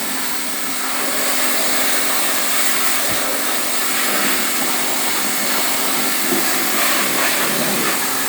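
Pressure washer running steadily, its jet of water spraying over an engine bay and rinsing off dirt and oil.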